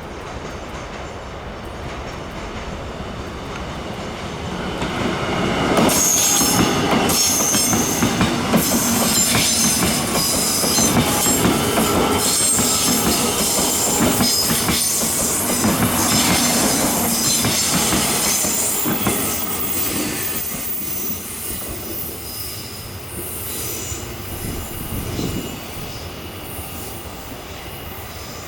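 A Taiwan Railways local commuter electric train passing: it grows louder about four seconds in, runs loud for over ten seconds with high-pitched wheel squeal and clattering over the rails, then fades away.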